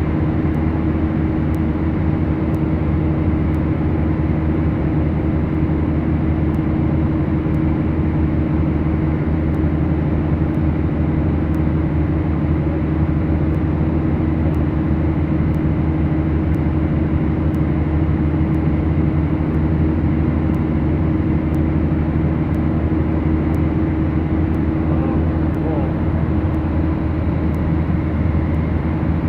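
The twin engines and propellers of a Beechcraft Duchess running steadily, a constant loud drone with a low hum.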